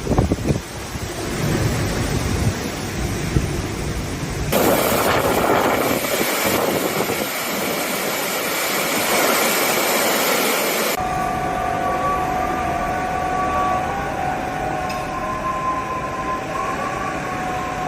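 Typhoon-force wind rushing steadily, in three stretches that cut abruptly from one to the next about four and a half and eleven seconds in. The middle stretch is a brighter hiss with little bass. In the last stretch, steady high whistling tones ride over the wind.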